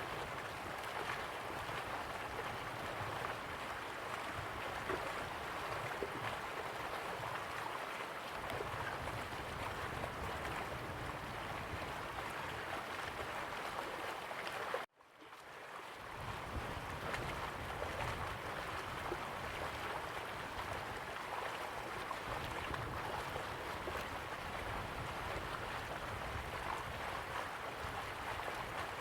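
Slow-flowing river water, a steady rushing wash. About halfway through it cuts out abruptly, then fades back in over about a second.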